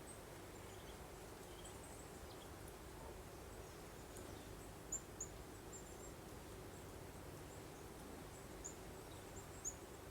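Soft, steady breeze hiss with faint, short, high-pitched songbird chirps scattered through it, a few louder ones about halfway and near the end.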